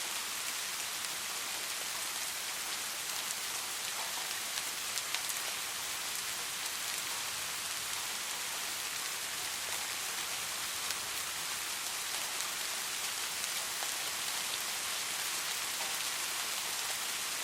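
Steady rain falling, an even hiss with a few brighter drops ticking now and then.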